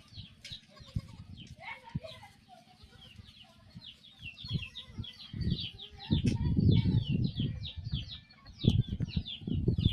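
Chickens calling in a rapid run of short, falling peeps, about three or four a second, from about four seconds in. Low bumps and rumbling on the microphone come in over the second half.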